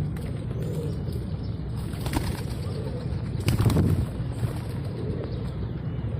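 Pigeons flapping their wings: a short flurry about two seconds in and a louder, longer one about three and a half seconds in, over a steady low rumble.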